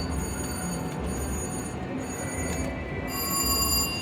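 Red Ball Bingo slot machine's electronic tones over the steady noise of a casino floor. A brighter chime sounds about three seconds in and lasts under a second.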